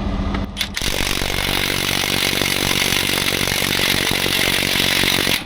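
Cordless impact wrench hammering on a seized fastener. It starts about a second in, runs for about four and a half seconds and cuts off suddenly, without breaking the fastener loose.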